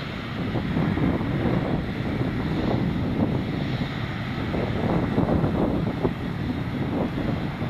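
Boeing 777-300ER in flight: a steady, loud rush of GE90 jet engine and airflow noise, slightly uneven in level.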